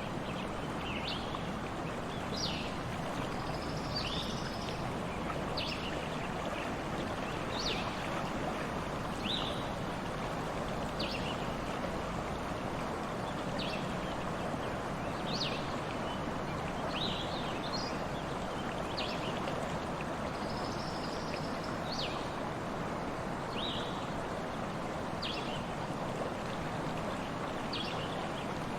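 A stream running steadily, with a bird repeating short high chirps every second or two.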